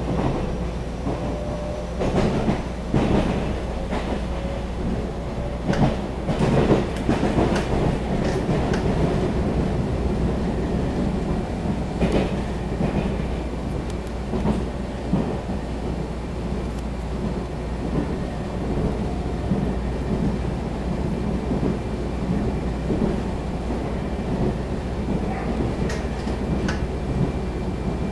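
Running sound of a Taiwan Railway EMU700 electric multiple unit heard from inside the carriage: a steady low rumble with irregular clicks and knocks from the wheels on the track. The clicks are thickest in the first ten seconds and come back near the end.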